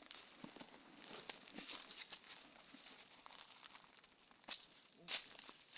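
Faint, irregular rustling and crackling, like dry material being moved, with two sharper clicks near the end.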